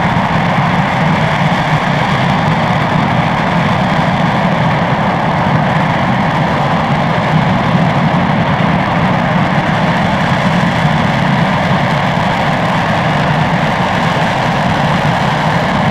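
RS-25 liquid-hydrogen/liquid-oxygen rocket engine hot-firing on a test stand: a loud, steady, unbroken rush of exhaust noise.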